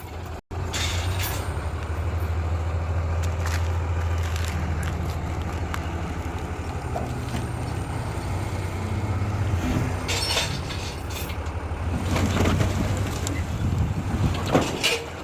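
A 5-ton army 6x6 dump truck's engine running with a steady low hum, with scattered knocks and rattles that grow busier in the last few seconds.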